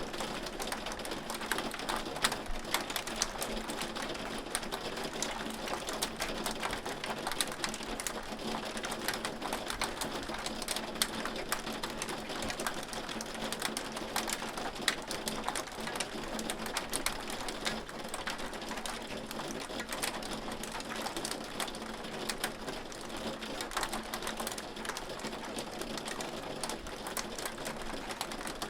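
Hail falling steadily: a dense, continuous patter of many small sharp hits.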